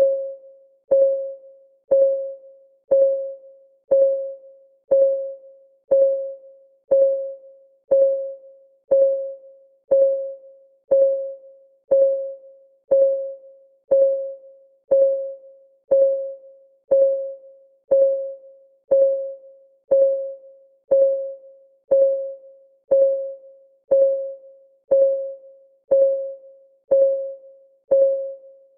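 Clock ticking sound effect of a countdown timer: one short pitched tick every second, each ringing out briefly, at a perfectly even pace.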